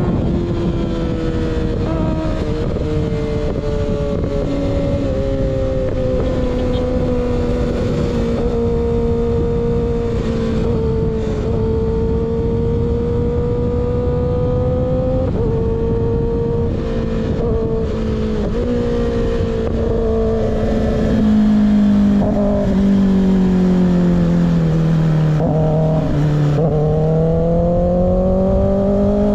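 Kawasaki ZX6R inline-four sport bike engine running through an unbaffled M4 slip-on exhaust, holding a steady note at cruising revs over wind rush. About three-quarters of the way in the revs fall off and the note drops, then climbs again near the end.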